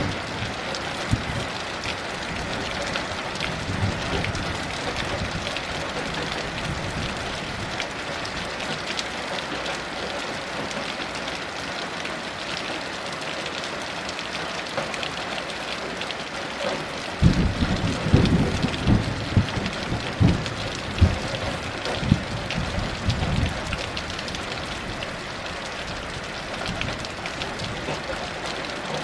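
Heavy rain falling steadily. A little past halfway, a roll of thunder comes in, rumbling with several sharp louder peaks for about six seconds before fading back under the rain.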